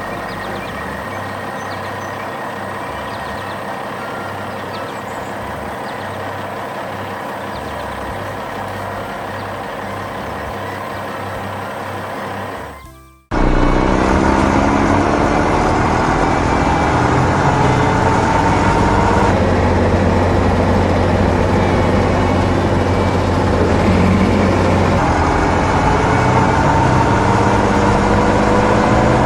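Heavy diesel machinery running steadily. After an abrupt cut about halfway through, a louder engine revs up, its pitch climbing for several seconds, then runs on under load.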